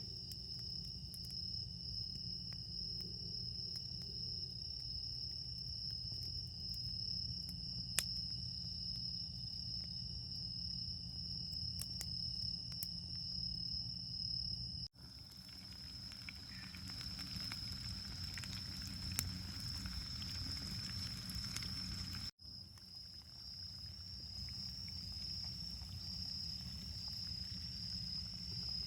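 Autumn night insects such as crickets trilling steadily at a high pitch, with scattered sharp crackles and pops from a wood campfire. The sound drops out for an instant twice, and after the second break the trill pulses regularly.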